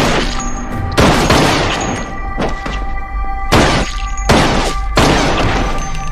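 Dramatic TV-drama score with sustained notes, cut through by about six heavy impact hits of a fight scene, landing roughly once a second, each with a short ringing tail.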